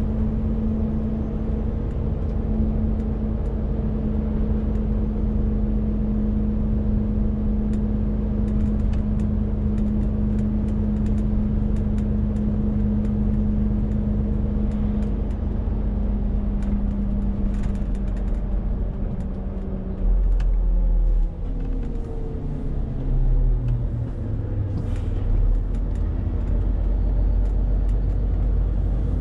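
Renault T520 truck's six-cylinder diesel engine pulling steadily under a 40-tonne load; about twenty seconds in the revs drop and settle at a lower note, with two brief deep rumbles.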